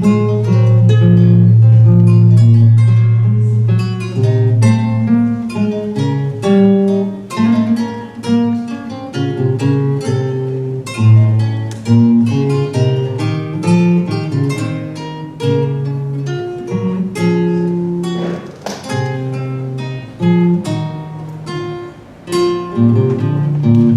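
Acoustic guitar playing a fast run of plucked notes over a low bass note that rings for the first few seconds.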